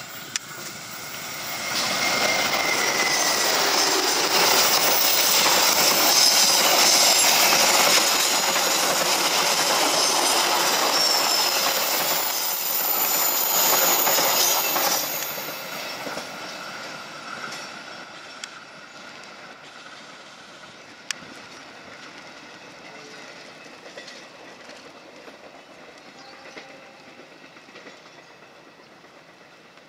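Diesel-electric locomotive and its passenger coaches passing close by on a curve: the wheels squeal and clack over the rail joints. It builds up about two seconds in, stays loud for some thirteen seconds, then fades quickly as the train moves away.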